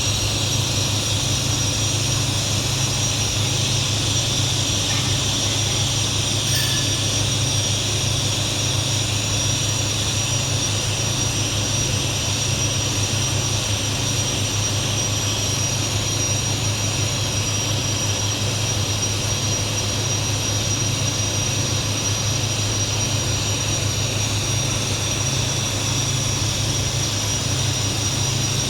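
TIG welding arc on stainless-steel pipe: a steady, unbroken buzz with a hiss over it and a thin high whine.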